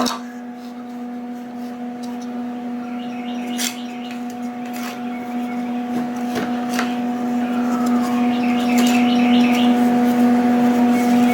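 A steady electrical hum runs throughout, with a few sharp knocks and clicks as wooden wedge shims are worked into a steel box rail. Birds chirp briefly twice.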